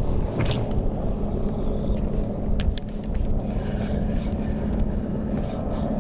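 An engine running steadily: a low rumble with a steady hum, and two sharp clicks about two and a half seconds in.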